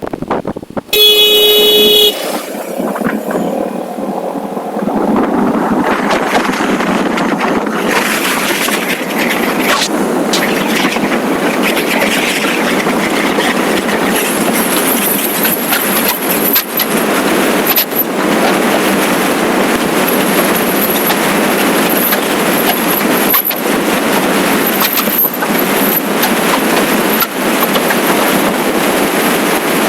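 A vehicle horn sounds once, about a second long, near the start. Then comes the steady rushing noise of a motorcycle under way, wind and road noise building up over the first few seconds.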